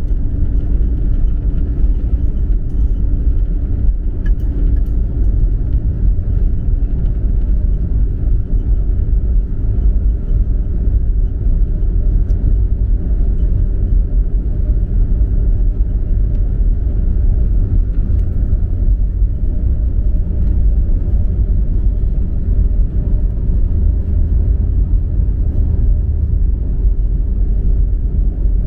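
Steady low rumble of jet-airliner cabin noise, with a faint constant hum over it.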